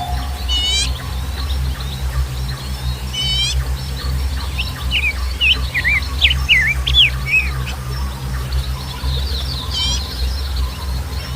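Birds calling: three quick runs of falling notes spread through, and a string of short whistled notes in the middle, over a steady low rumble.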